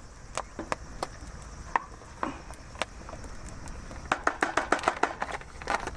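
Knife cutting on a cutting board: scattered single cuts, then a quick run of about six cuts a second about four seconds in.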